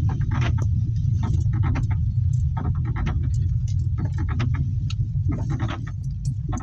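Wind buffeting the microphone as a steady low rumble, with rain and handling making irregular sharp taps and knocks several times a second, during a heavy downpour.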